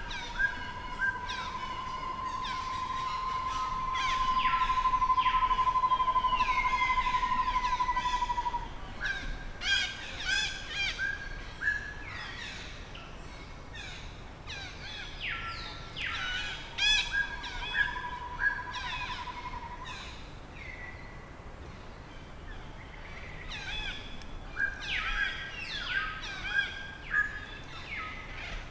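A chorus of short, high-pitched animal calls and chirps repeating throughout. A steady, high warbling tone runs for the first eight seconds or so, growing louder about four seconds in, and comes back for a few seconds past the middle.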